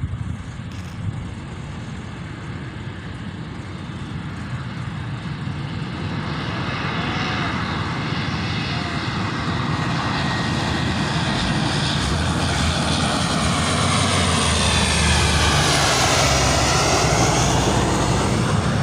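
Truck engine running hard, growing steadily louder; near the end its pitch dips and then climbs again.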